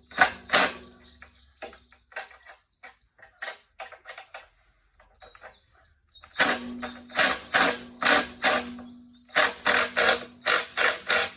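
Hand ratchet wrench clicking in quick, evenly spaced strokes, about three a second, as a bolt is turned. The clicks come in a short run at the start and two longer runs in the second half, with quieter scattered clicks in between.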